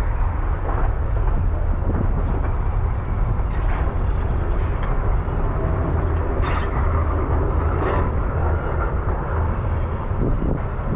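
Steady low rumble of a vehicle in motion, with two sharp clicks about six and a half and eight seconds in.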